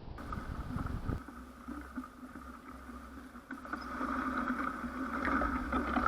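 A steady mechanical drone, a low rumble with a fainter, higher, even hum over it, typical of a distant engine.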